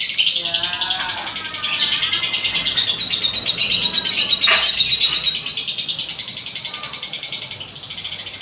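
Lovebird singing 'ngekek', its long unbroken chattering trill: a rapid, high-pitched stream of chatter held for about seven and a half seconds before stopping near the end, with a few lower sliding chirps in the first two seconds.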